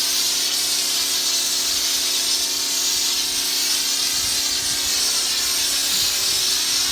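Harbor Freight pressure washer spraying a jet of water onto vinyl siding: a steady, loud hiss of spray with a constant machine hum underneath.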